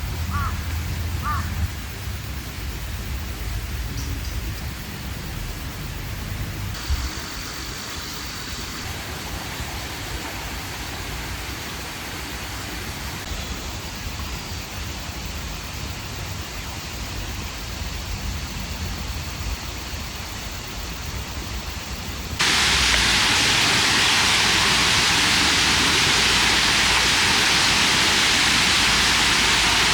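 Steady outdoor noise with a low rumble for the first several seconds. About three-quarters of the way through, a much louder, even rushing noise starts abruptly and holds steady.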